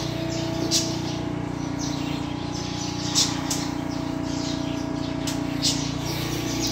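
Small birds chirping, a few short high chirps scattered irregularly over a steady low hum.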